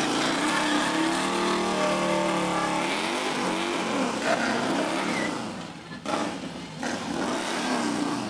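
Motorcycle engines revving, their pitch climbing and falling repeatedly, with a brief lull about six seconds in before more revving.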